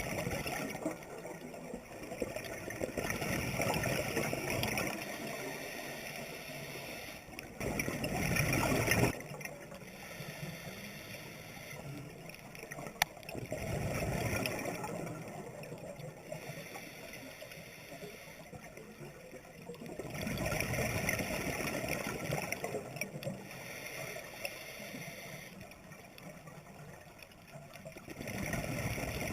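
Scuba diver's regulator underwater: gurgling exhaled bubbles in swells about every six to seven seconds, with quieter water noise between breaths.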